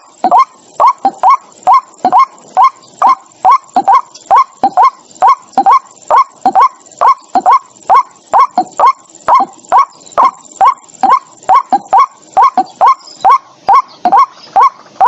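White-breasted waterhen calling: a long run of short notes around 1 kHz, repeated steadily at close to three a second.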